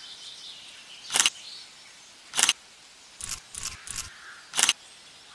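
Camera shutter clicks: three sharp single clicks about a second apart, with a quick run of three lighter clicks in between.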